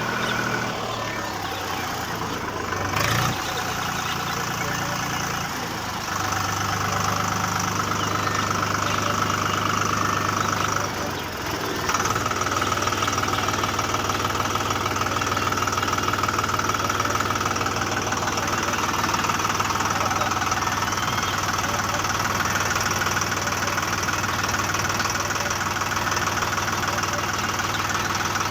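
Steady engine-like mechanical hum of the DIY mini tractor running. The pitch steps up about six seconds in, and there is a brief dip about eleven seconds in.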